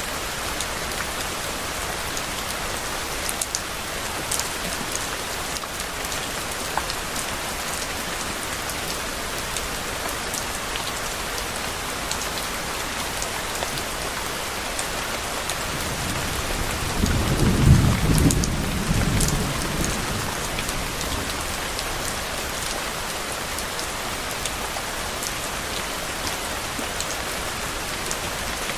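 Steady rain falling on a surface, with scattered drop ticks, and one low roll of thunder swelling past the middle and fading within a few seconds.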